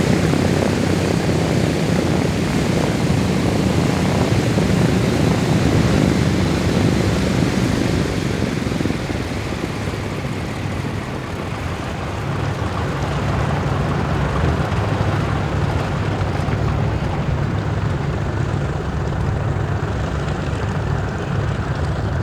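The four Wright R-1820 nine-cylinder radial engines of a Boeing B-17G Flying Fortress run steadily with propellers turning. The sound eases about nine seconds in and builds again a few seconds later.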